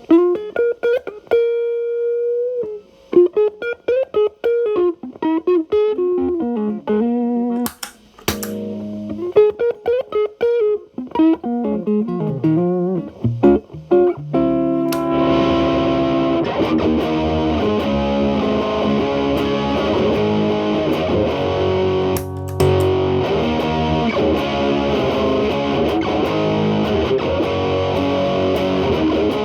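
Telecaster electric guitar through an MI Audio Crunch Box distortion pedal set to maximum gain, into a Marshall Valvestate amp's clean channel. The first half is a cleaner line of single picked notes and double-stops with short gaps; from about halfway it turns into a thicker, continuous distorted sound with sustained notes.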